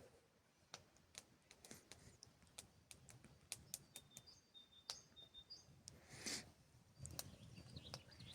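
Faint scattered clicks and ticks, with a few short, high bird chirps about halfway through and a brief rushing noise after about six seconds.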